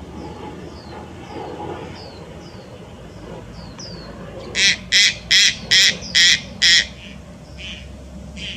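Subadult Malayan night heron calling: a run of six loud, harsh squawks at about two to three a second, starting about halfway through. Before them there are faint, thin, falling chirps.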